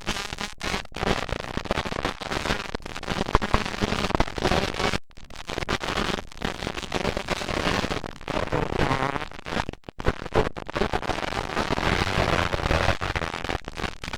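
Several 125cc two-stroke motocross bikes racing, their engines revving up and down with a crackling, popping exhaust. The sound cuts out briefly about five seconds in and again about ten seconds in.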